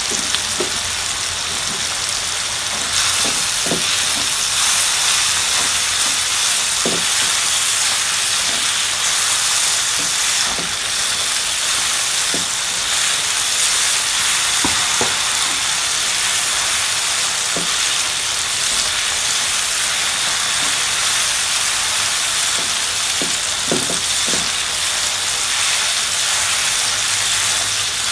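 Ground garlic and red chili paste sizzling in hot oil in a wok, with a steady hiss that grows louder about three seconds in. A silicone spatula stirring it gives short scrapes and knocks against the pan now and then.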